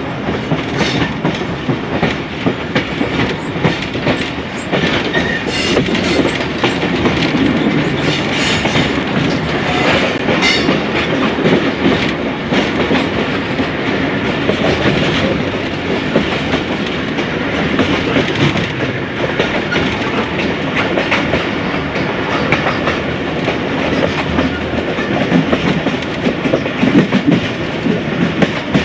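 Passenger train running along the track, with steady rolling noise and the clickety-clack of wheels over rail joints.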